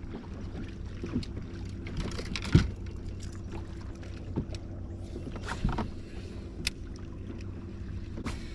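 A small motor on a bass boat humming steadily, with scattered knocks and clicks; the loudest knock comes about two and a half seconds in.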